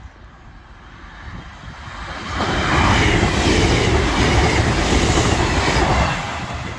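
Two coupled Class 158 diesel multiple units passing at speed close by. Engine and wheel-on-rail noise builds over the first two seconds, stays loud for about four seconds as the cars go by, then falls away.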